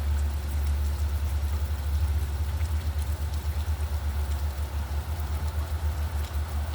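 Steady low engine rumble of a vehicle idling, pulsing quickly, with faint rain patter ticking over it.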